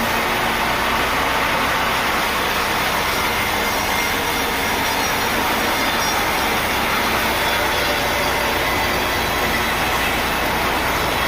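Sawmill machinery running steadily, a saw cutting through a log with a dense, even noise.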